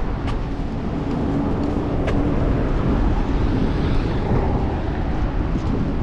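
City street traffic with a steady low rumble heard from a moving bicycle, and a faint steady hum from a vehicle for the first few seconds.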